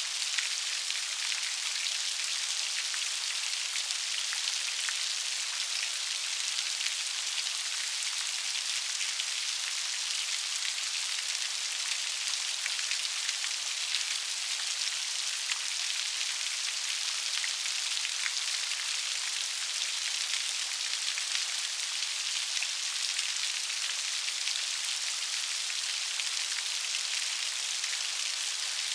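Steady rain, with a dense patter of individual raindrops hitting a surface.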